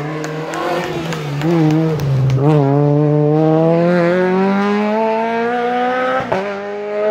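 Rally car's engine pulling away out of a hairpin: uneven at first, then the engine note climbs steadily for about four seconds, dips briefly about six seconds in as it shifts up, and carries on at a higher pitch.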